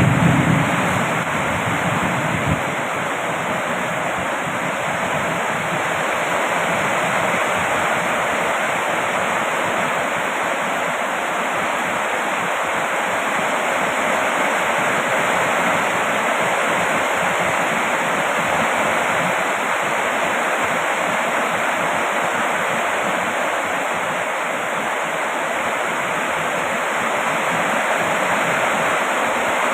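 Heavy rain falling steadily, an even unbroken hiss. A low rumble underneath stops about two seconds in.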